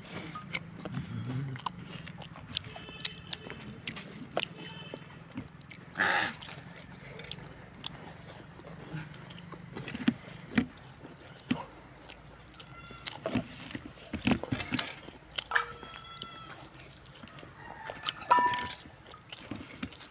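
Someone biting and chewing food, crisp pani puri shells and samosa, as scattered crunches and clicks, with a few short animal calls in between.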